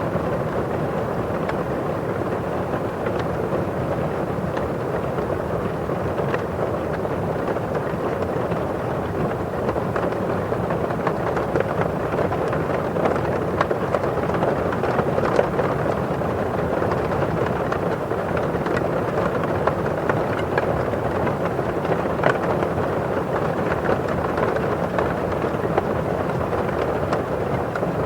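Steady rain on a window pane: many individual drops tapping on the glass over a constant rustle of rain falling outside.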